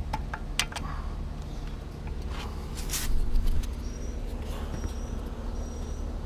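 Flat-head screwdriver clicking and scraping against the tight drain screws on the lower unit of a 1981 Evinrude 25 hp outboard, with a louder rasp about three seconds in. Short thin high squeaks come near the end.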